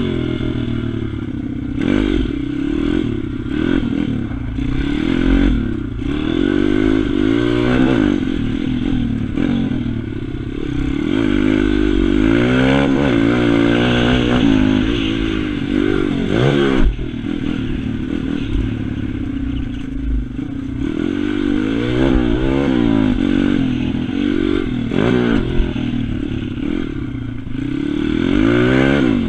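Pit bike's single-cylinder engine revving hard as it is ridden, its pitch climbing and falling again and again as the rider accelerates and backs off, with a sudden drop and blip about 17 seconds in.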